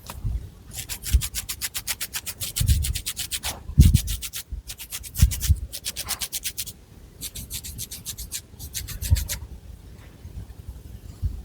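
Long fingernails scratching a scalp through thick hair in quick, rhythmic strokes, about nine a second. The strokes come in four runs separated by short pauses, with soft low thuds between them.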